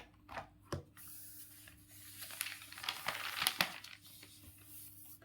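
Faint scattered clicks, then a crinkling, rustling noise with many small clicks in the middle, over a faint steady electrical hum.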